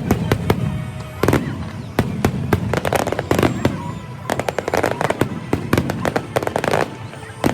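Aerial fireworks going off in quick succession: many sharp bangs and crackles, densest around the middle, over a steady low rumble.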